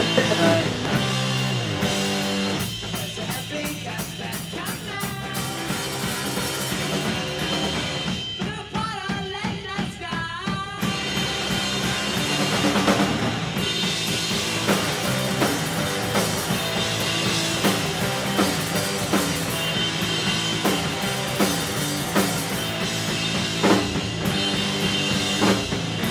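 Loud rock music, with a full drum kit driving a steady beat.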